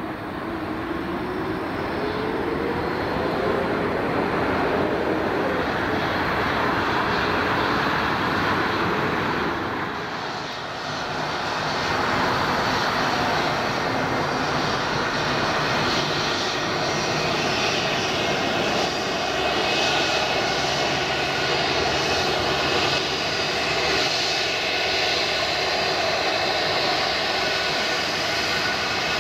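Jet airliner flying low on landing approach: a steady engine rumble with a whine over it, easing briefly about ten seconds in.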